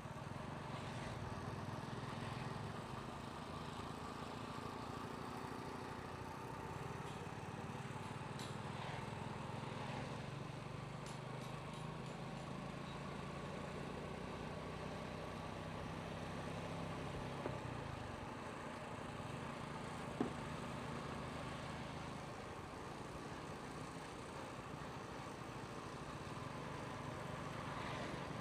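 Motorcycle engine running steadily while riding, with road noise; a sharp click about twenty seconds in.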